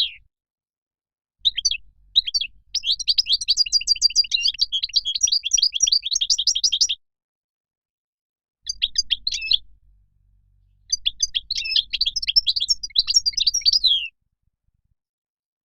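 European goldfinch singing: phrases of rapid, liquid twittering, broken by short silent pauses, with a longer pause near the end.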